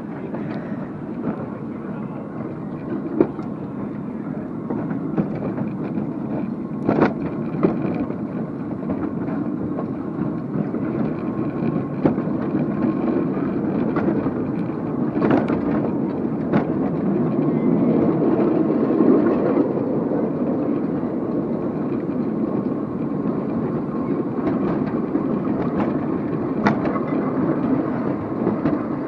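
Amusement park ride train running along its track with a steady rumble, dotted with sharp clicks and knocks; the rumble swells about two-thirds of the way through.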